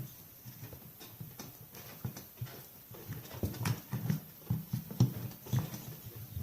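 Irregular light knocks and clicks, metal tools and parts handled while a chainsaw is being taken apart.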